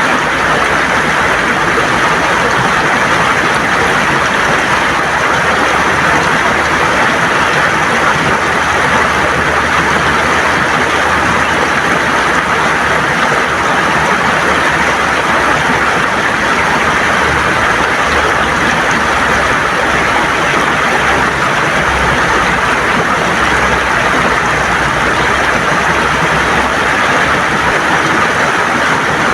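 River water gurgling over stones: a steady, loud rush of flowing water with no break.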